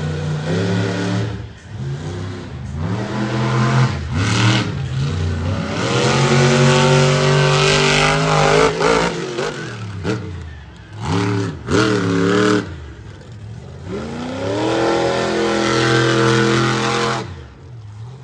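Monster truck engine revving hard in repeated bursts, its pitch sweeping up and dropping back between throttle stabs, with two longer sustained pulls.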